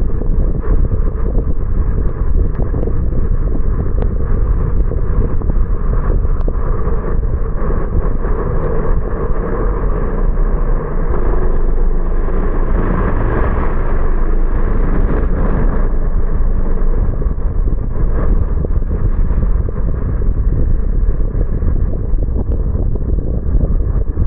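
Steady road noise from a car driving on wet roads in the rain: a low rumble of tyres and running gear, with a swell for a few seconds around the middle.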